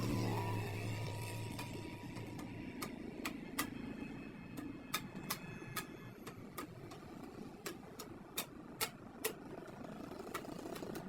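A series of sharp taps or knocks at uneven intervals, more than a dozen, over steady workshop background noise. A low hum fades out in the first couple of seconds.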